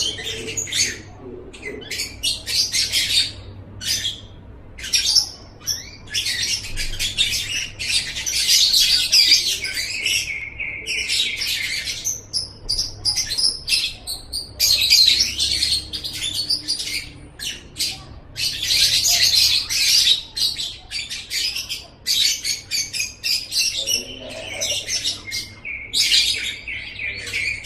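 Lovebird song: long runs of fast, high-pitched chattering and squeaky trills, broken by short pauses.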